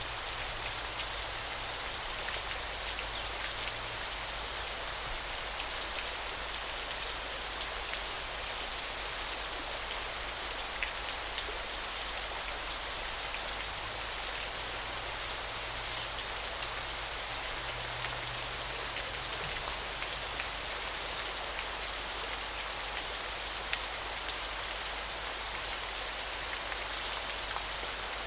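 River water flowing, a steady even rush. A thin high-pitched buzz comes and goes over it, in stretches of a few seconds, mostly in the second half.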